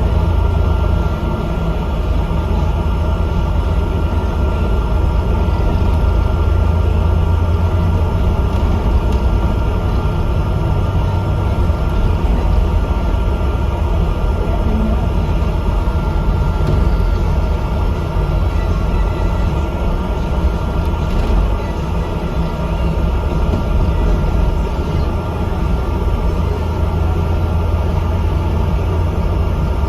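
Bus on the move: a steady low engine and road rumble with a faint steady whine above it.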